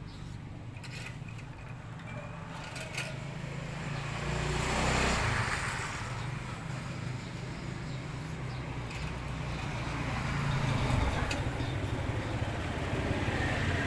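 Road traffic in the background: a vehicle passes about five seconds in and another near the end, over a steady low hum.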